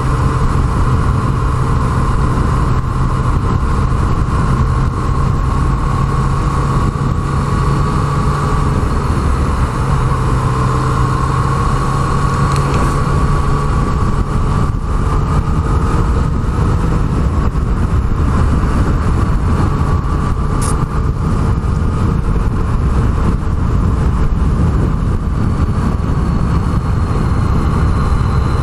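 Yamaha MT-09's three-cylinder engine running at a steady cruise while riding, its pitch drifting gently up and down, over a constant rush of noise.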